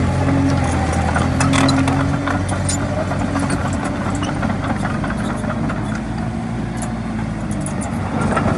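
Komatsu D20A bulldozer's diesel engine running steadily, its pitch sagging slightly partway through, with scattered metallic clicks and clanks.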